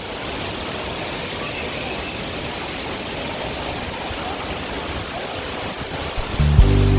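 Waterfall's falling water, a steady rushing noise. Music with a strong bass line comes in near the end.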